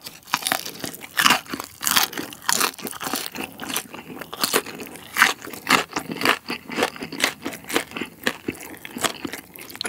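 Crunchy chewing of crisp-battered tangsuyuk (Korean sweet and sour pork): a bite, then a steady run of sharp crunches, several a second.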